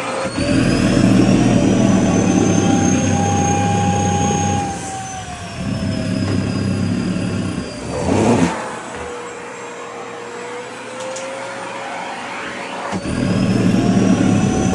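Vacuum cleaner running with its motor whine shifting slowly up and down in pitch as a dress is drawn into the nozzle, with stretches of low rumbling fabric noise for the first five seconds, again a little later, and near the end, and a brief loud rush about eight seconds in.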